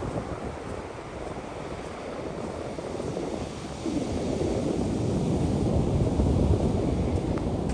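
Heavy dump truck's diesel engine rumbling low, growing louder about four seconds in, with wind buffeting the microphone.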